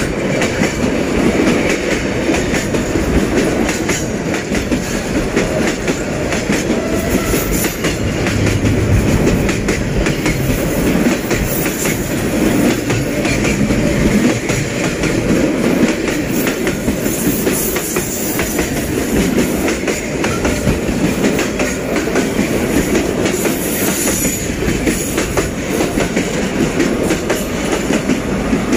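Container freight train's wagons rolling along the rails, heard from on board: a loud, steady running noise of steel wheels on track with many rapid knocks from the rail.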